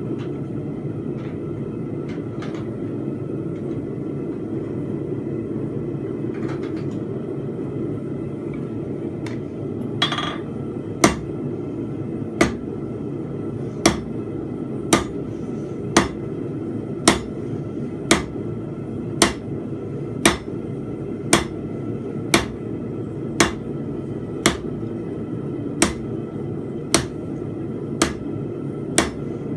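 Steady roar of a running forge, with a blacksmith's hammer beginning to strike hot steel on an anvil about ten seconds in, roughly one blow a second, each with a short ring, drawing out a steel fence peg.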